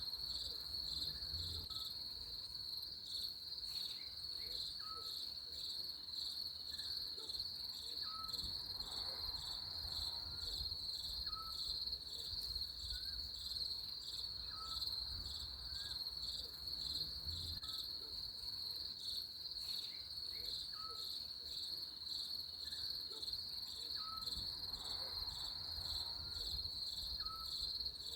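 Crickets chirping in a steady, fast, high-pitched trill. Underneath it, a faint short call repeats about once a second.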